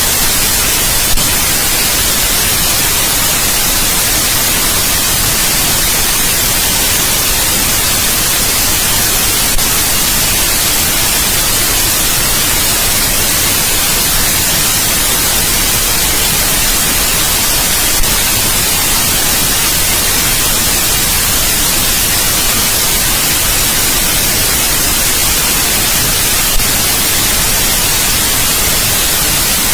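Steady, loud white noise: an even hiss with no tone or rhythm, with a faint click a few times.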